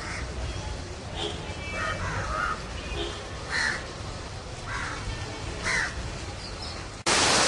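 Crows cawing, half a dozen harsh calls a second or so apart, over a low steady rumble. Near the end the sound cuts abruptly to a loud, even hiss of rain.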